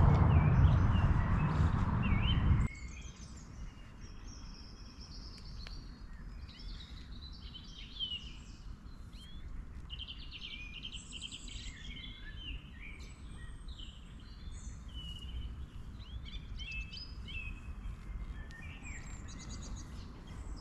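Small songbirds singing, a busy run of chirps, trills and warbling phrases. For the first two and a half seconds a loud low rumble covers them, then cuts off suddenly.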